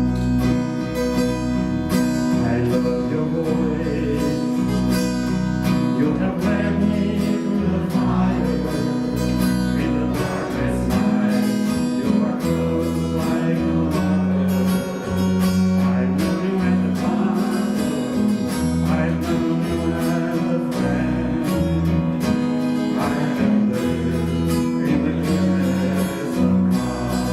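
Church worship music without words: strummed acoustic guitar over low bass notes that change every couple of seconds.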